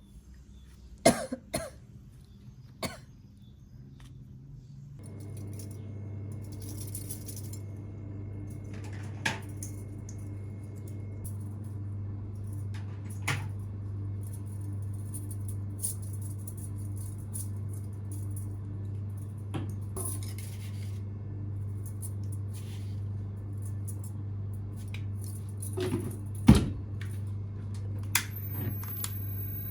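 A few sharp clinks and knocks of household items, then a steady low machine hum that starts about five seconds in, with more scattered knocks over it.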